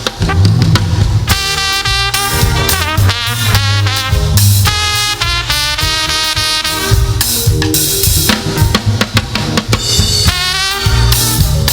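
Live gospel band music: a drum kit keeping the beat under a horn section of saxophone and brass playing melodic lines.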